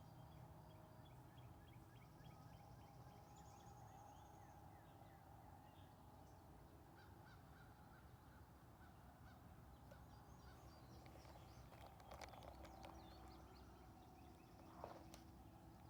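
Faint outdoor ambience: small birds calling in short repeated chirps and trills over a low steady rumble, with a brief sharp knock near the end.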